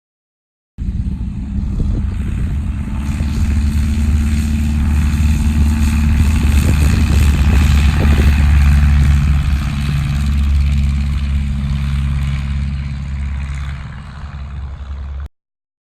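Light aircraft engine and propeller of a Cessna 140A running steadily, growing louder toward the middle and then easing off; the sound starts and cuts off suddenly at edits.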